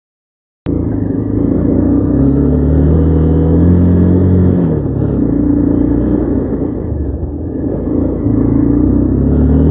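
Motorcycle engine under way, coming in abruptly a moment in; its pitch climbs as it accelerates, drops at a gear change about halfway, then climbs again near the end.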